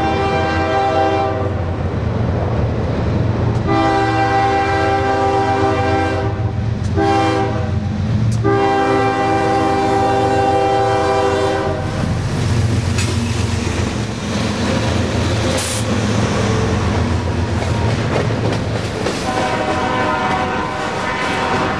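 Freight train's diesel locomotive sounding its multi-chime air horn: a blast ending about a second in, then long, short, long, the grade-crossing signal, with another long blast starting near the end. Under the horn runs the steady rumble of the locomotive and the train's wheels passing over the rails.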